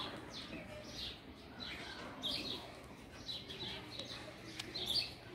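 Birds chirping: many short, high chirps scattered through, coming one after another.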